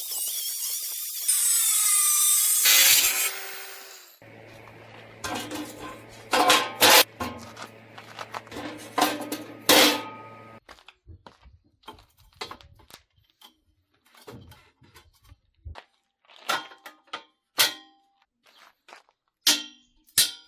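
A high-pitched power tool runs for about four seconds and then winds down. A series of sharp metal knocks and clatter follows, loudest in the middle and growing sparse and quiet near the end.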